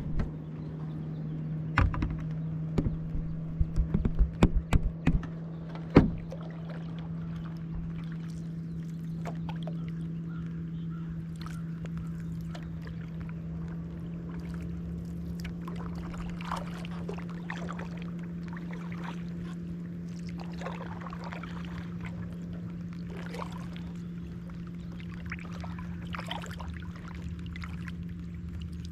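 Kayak out on the water: a quick run of hollow knocks on the hull in the first few seconds, then small water splashes and drips over a steady low hum.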